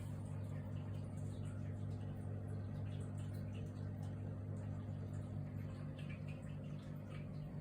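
Steady low electrical hum from running aquarium equipment, with a few faint ticks over it.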